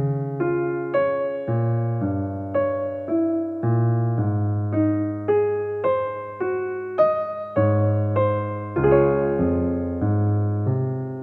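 Gentle background piano music: single notes struck about twice a second over held bass notes, each note ringing and fading.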